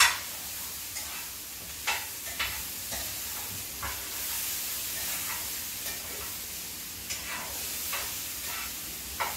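Sweet potatoes with onion and garlic sizzling in a hot skillet as they are stirred, with a steady hiss and scattered clicks and scrapes of the utensil against the pan, the sharpest right at the start.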